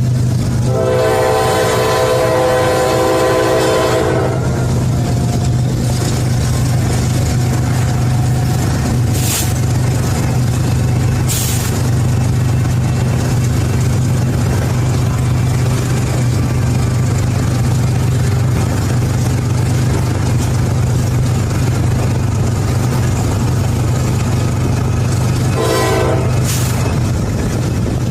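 Diesel locomotive running with a steady low engine drone. Its multi-tone horn sounds one long blast of about three and a half seconds near the start and a short blast near the end, with a couple of sharp metallic clanks in between.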